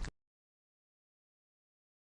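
Digital silence: the preceding sound cuts off abruptly right at the start, and nothing follows.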